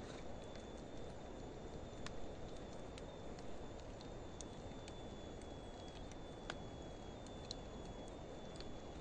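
Wood fire of driftwood and dry hardwood logs burning, with a steady low rush and scattered sharp crackles, about one every second or two.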